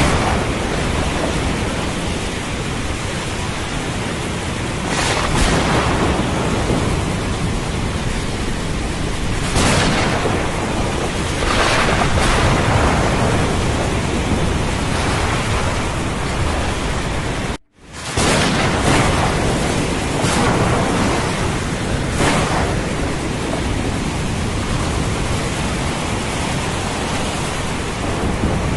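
Thunderstorm ambience: steady heavy rain with rumbling thunder, swelling louder several times. About two-thirds of the way through, the sound cuts out for a moment and comes back.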